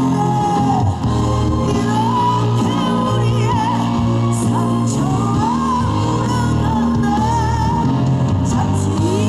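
Live pop-rock band music: steady bass and chords under a lead melody line with vibrato, from a vocal ad-lib or a solo instrument, in an instrumental stretch of the song.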